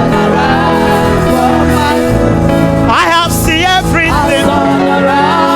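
Live gospel praise music: steady held chords from the band, with a singer's wavering, ornamented phrase about three seconds in.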